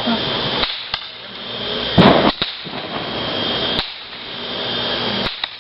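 Fireworks going off: four sharp bangs a second or two apart, the loudest about two seconds in with a short crackle after it.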